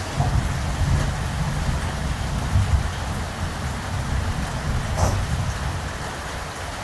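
Steady rain hiss with a low rumble of distant thunder under it; the rumble dies away near the end.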